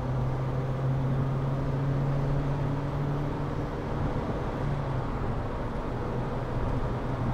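MG Maestro Turbo's turbocharged four-cylinder engine droning steadily at speed, heard from inside the cabin over road and wind noise. The engine note dips slightly about three seconds in.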